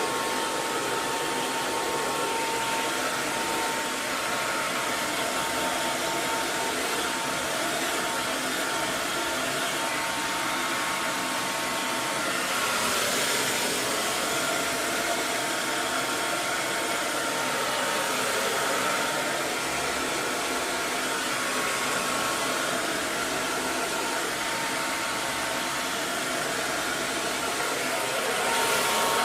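Hair dryer running continuously: a steady rushing blow of air with a faint motor whine, its level swelling slightly a couple of times.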